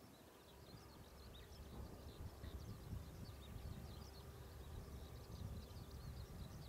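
Small birds chirping faintly and continually over a low outdoor rumble with a faint steady hum.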